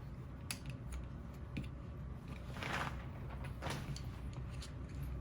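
Faint small clicks of knitting needles and soft rustles of yarn as cable stitches are worked by hand, with two brief swishes about two and a half and three and a half seconds in.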